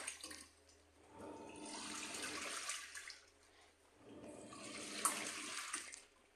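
Washing machine churning water during its wash cycle: swishing surges about two seconds long, two of them with short pauses between, the back-and-forth rhythm of the agitation.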